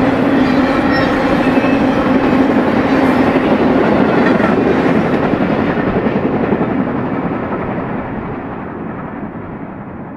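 Intermodal freight cars carrying truck trailers rolling past on the rails, with a steady rumble and clatter of steel wheels. From about halfway through the sound grows fainter and duller as the end of the train draws away.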